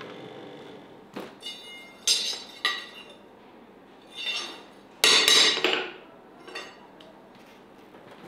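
A series of clinks and clatters of hard objects knocked together, about half a dozen separate strikes that ring briefly. The loudest, longest clatter comes a little past the middle.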